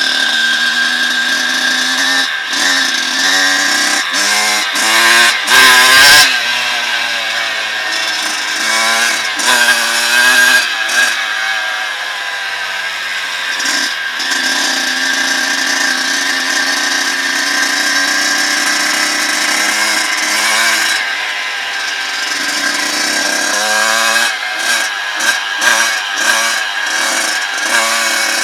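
Dirt bike engine running under way, its pitch rising and falling as it revs and eases off. There are quick bursts of revving between about two and seven seconds in and again near the end, with steadier running in the middle.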